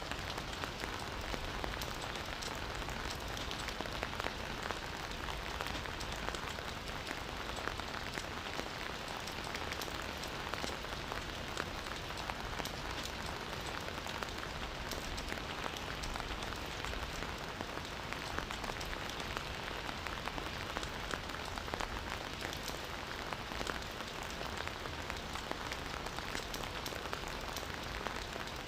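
Steady rain falling in a forest, a continuous hiss dense with the ticks of individual drops.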